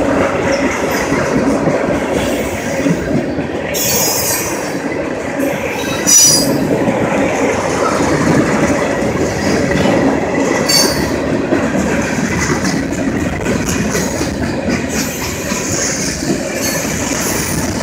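BNSF freight train cars rolling past close by, a steady rumble and clatter of wheels on rail joints. Short high-pitched wheel squeals cut in about four seconds in, about six seconds in and again near eleven seconds.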